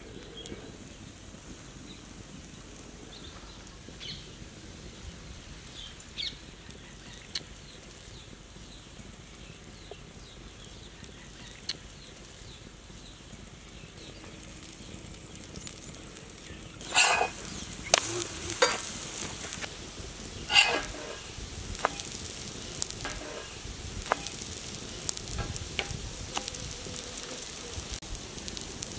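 Pancakes frying in oil on a flat iron griddle: a low sizzle with occasional pops at first. From a little past halfway it turns into loud, dense crackling and spitting.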